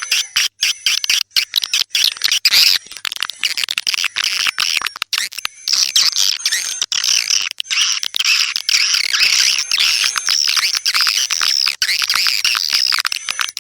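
Swiftlets calling: a dense, continuous twittering of high, rapid chirps, broken by many brief dropouts.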